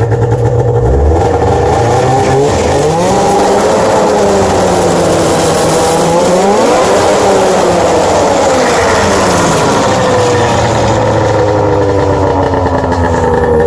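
1997 Arctic Cat EXT 580 EFI snowmobile's two-stroke twin engine running and being revved up and down several times, its pitch rising and falling, then dropping back toward idle near the end.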